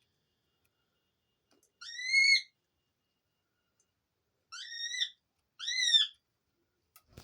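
Three short, high squeaky whistle calls from pet doves, each rising then falling in pitch: one about two seconds in, then two close together near the middle.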